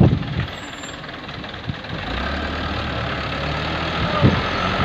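Dump truck's diesel engine idling, a steady low note that comes up about two seconds in.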